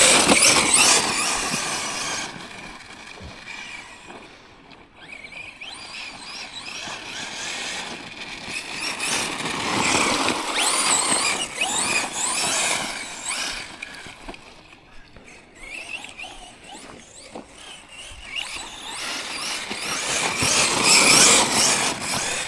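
Tekno MT410 2.0 RC monster truck's brushless electric motor and drivetrain whining under throttle, the pitch rising and falling as the truck speeds up and slows. It grows louder three times: at the start, about ten seconds in, and near the end.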